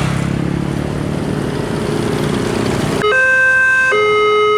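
Road traffic with a vehicle engine running, then about three seconds in a railway level-crossing warning alarm starts: a loud electronic two-tone signal alternating pitch roughly every second, announcing an approaching train.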